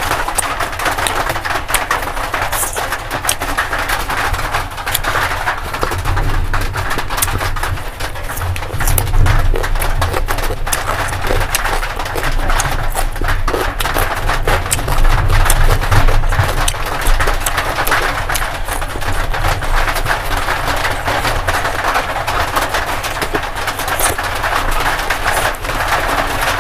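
Close-miked chewing and mouth sounds of a person eating, a steady run of many small clicks and smacks.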